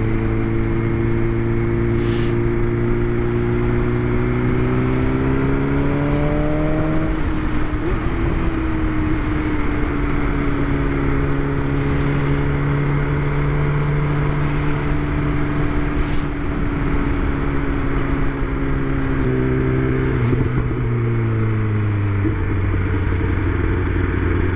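2020 BMW S1000RR's inline-four engine under way. Its pitch rises steadily through a gear, drops at a shift about seven seconds in, holds steady, then changes again near the end. Wind rushes over the helmet microphone throughout, with two brief clicks.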